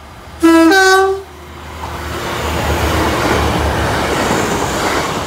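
Class 185 diesel multiple unit sounds its two-tone horn, a lower note then a higher one, for under a second. Then the train runs over the level crossing: a swelling rush of wheel and diesel engine noise.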